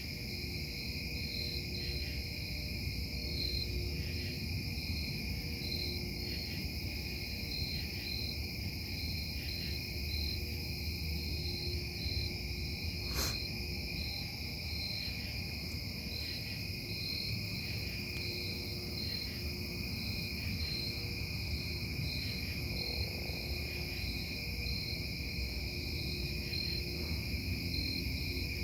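Steady low rumble and hum of a metal-casting plant running through the night, with high steady whining tones above it. A single sharp click comes about halfway through.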